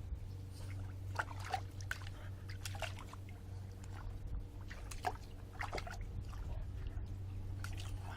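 Water splashing and sloshing in a bird bath as a small dog paws and plays in it: irregular splashes, about seven over several seconds, over a steady low hum.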